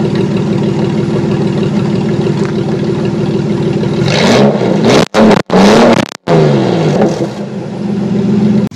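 Ford Explorer's stock 4.0-litre V6 with the muffler cut off, idling loud and raw through the open exhaust. About four seconds in it is revved up and let fall back twice, then settles to idle again. The sound cuts out for an instant three times during the revs.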